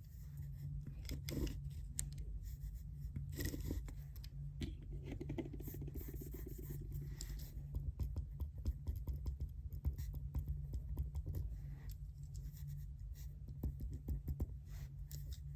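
Pen writing on paper: quick scratchy strokes and light taps, with a few longer scratchy swishes, over a steady low hum.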